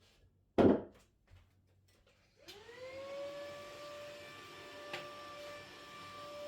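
A single thump, then about two seconds later a vacuum cleaner motor starts up, its whine rising quickly and then running steady.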